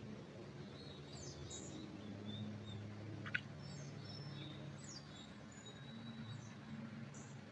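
Small songbirds chirping and giving thin whistles in a pine forest, scattered high calls overlapping, over a steady low hum. One sharp short sound stands out about three seconds in.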